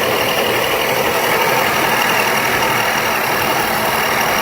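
The electric drive motors and gearbox of a battery-powered ride-on toy Jeep running, a loud steady whirring noise with a faint high whine.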